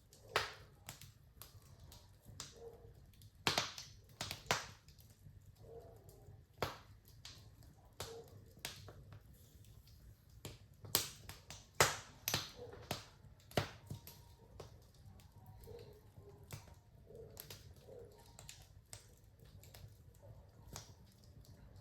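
Wood fire crackling in a fireplace: irregular sharp pops and snaps over a faint low steady background, with a flurry of louder pops a few seconds in and again about halfway through.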